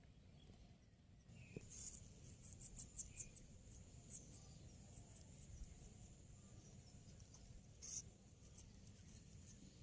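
Indian ringneck parrot nibbling an apple with its beak: faint, quick, crisp clicks in short flurries, a run of them about two seconds in and again near the end, over a faint low hum.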